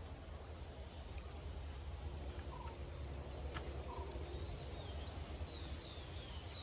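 Forest ambience: a steady high insect drone, with a bird giving a run of quick, falling chirps in the second half.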